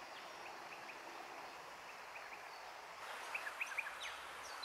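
Small birds chirping in short, quick notes over a steady outdoor hiss. About three seconds in, a louder rushing hiss of creek water comes in and the chirps grow louder and more frequent.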